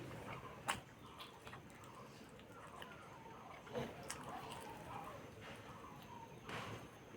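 Quiet eating sounds: soft chewing with a few faint wet clicks from the mouth, the clearest about a second in and again near four seconds.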